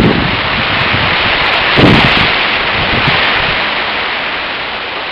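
Typhoon wind with rain, a steady loud rushing hiss. Gusts buffet the microphone in low thumps, hardest about two seconds in.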